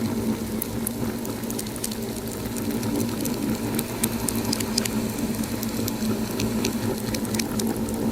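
Wood fire crackling in a fireplace: many small sharp pops and snaps, scattered irregularly, over a steady low rumble of the burning fire.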